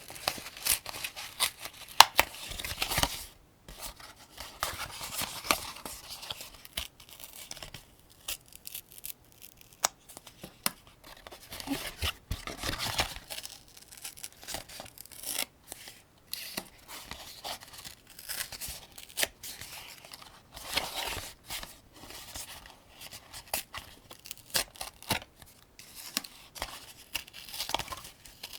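7.62×39 cartridges being loaded one at a time into a 75-round AK-47 drum magazine: irregular metallic clicks and short scraping sounds of brass against steel, with the sharpest click about two seconds in.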